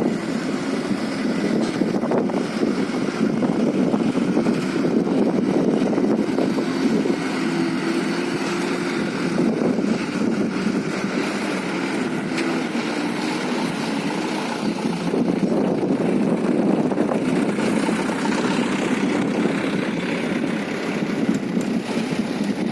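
Diesel engines of mining dump trucks running steadily as the trucks drive past, with a low engine drone and no breaks.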